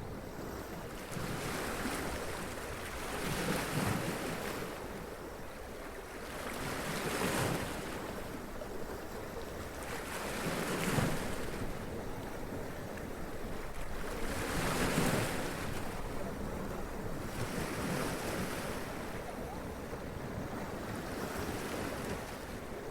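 Sea waves washing up onto rocks and splashing, a steady wash of surf that swells every three to four seconds as each wave breaks.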